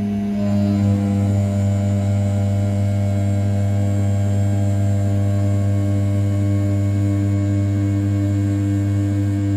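500 W brushless spindle of an RZ420 desktop CNC mill turning at 6000 rpm and rough-milling the outer profile of an A7075 aluminium block: a steady, pitched hum with a high whine. More tones join about half a second in.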